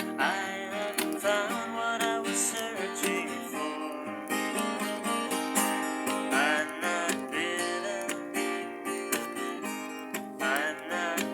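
Acoustic guitar being strummed in a steady rhythm, an instrumental passage of a folk song, with notes sliding in pitch over the chords.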